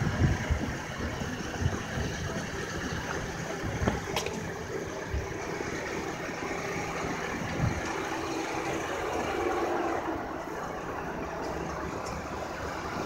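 A motor vehicle engine running steadily, with low thumps near the start and a single sharp click about four seconds in.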